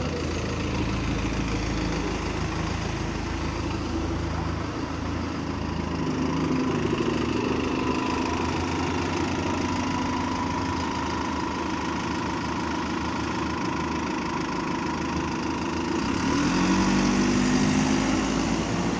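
Bus diesel engine running at low revs, its note changing about six seconds in, then rising as it speeds up near the end.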